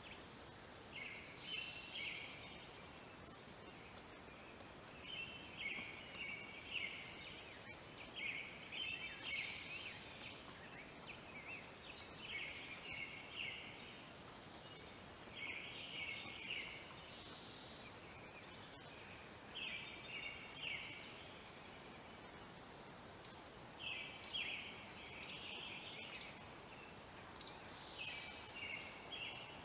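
Birds chirping and trilling in short, repeated high-pitched bursts, over a faint background hiss.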